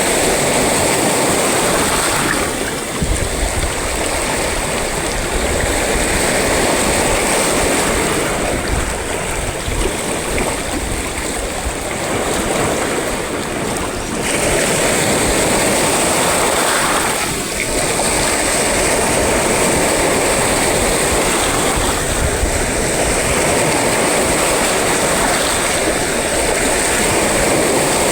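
Sea waves surging and washing onto a shore: a continuous surf noise that swells and eases, with a heavier low rumble in places.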